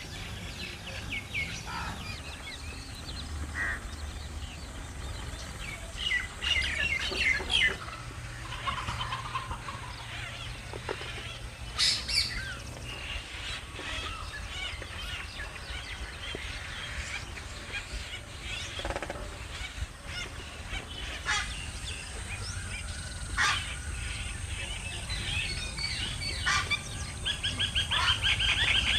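Many birds calling at once: short chirps and clucking calls overlap throughout, with a few louder sharp calls and a fast run of repeated notes near the end, over a low steady hum.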